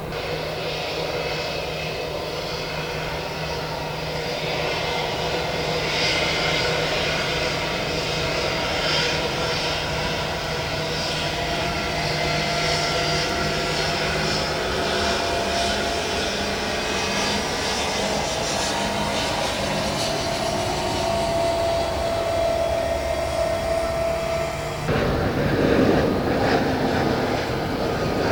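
Airliner jet engines running with a steady whine over a rushing noise. About 25 seconds in the whine cuts off abruptly and a louder rushing noise takes over.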